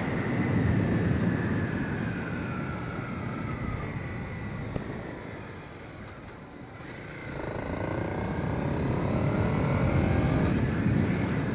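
Honda CB300R's single-cylinder engine on the move, its note falling as the bike slows for the first six seconds or so, then rising again as it accelerates.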